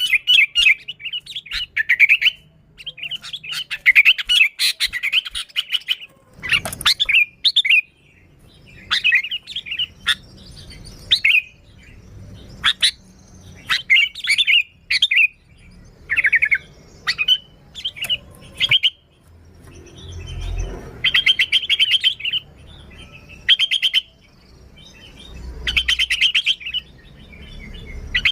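Sooty-headed bulbul (kutilang) singing in short, bubbly chattering phrases, repeated again and again with brief pauses between them.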